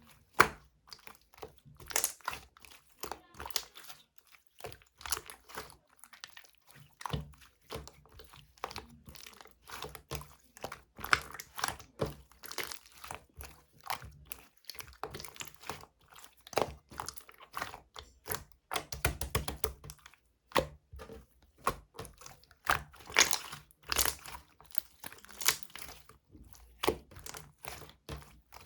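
Clear slime being squeezed, stretched and pressed by hand, giving a continual, irregular run of crackling and popping clicks.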